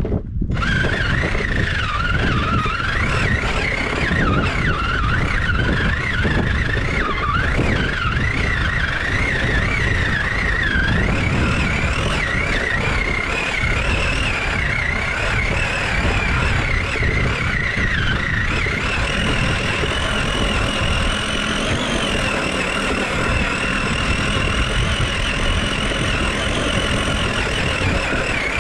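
Nitro RC truck's small glow-fuel engine running at high revs, its whine wandering up and down with the throttle, then holding higher and steadier for the last third.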